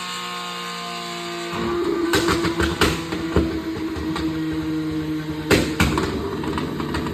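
Porsche 992 GT3's flat-six running through a titanium exhaust, steady at first, then louder and rougher from about a second and a half in. Sharp exhaust pops and bangs come over it, several in quick succession, then a loud pair later on, the crackle that comes with flames from the tailpipes.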